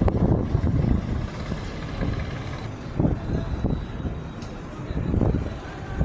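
Heavy truck running, a low rumble that swells and eases several times.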